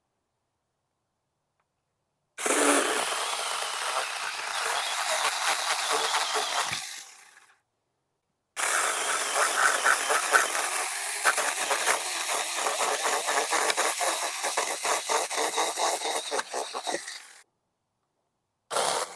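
Saker mini electric chainsaw running and cutting into dense crape myrtle hardwood. It makes a cut of about five seconds that tapers off as the chain slows, then after a short pause a longer cut of about nine seconds with a fast, gritty chatter. It starts up once more near the end.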